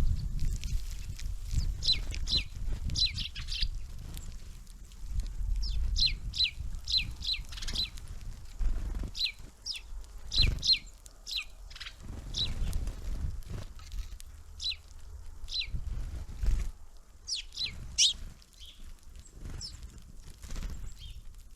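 Small songbirds at a winter feeder giving short, sharp calls that drop quickly in pitch, repeated in quick clusters. Under them are a low rumble and occasional knocks, the loudest about halfway through.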